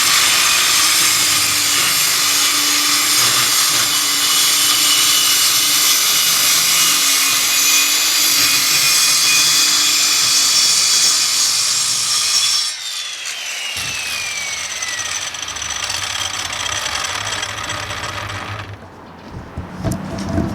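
Electric circular saw running and cutting through wood for about twelve seconds, then released, its blade winding down with a falling whine over the next few seconds.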